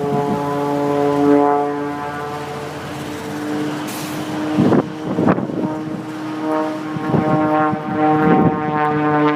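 Propeller engine of an aerobatic plane droning overhead as a steady hum whose pitch shifts slightly during the manoeuvres. Wind buffets the microphone with rumbling gusts about five seconds in and again near the end.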